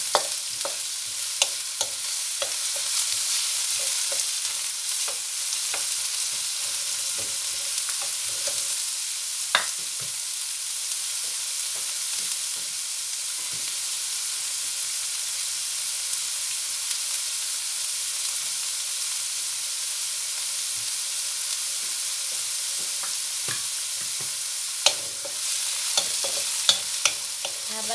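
Sliced red onion and garlic sizzling in hot oil in an aluminium wok, being sautéed until soft. A wooden spatula scrapes and taps against the pan in the first several seconds and again near the end; in between there is only the steady sizzle.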